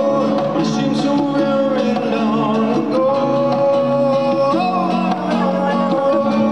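A band playing a song live: guitar-led music with long held melody notes over a steady accompaniment.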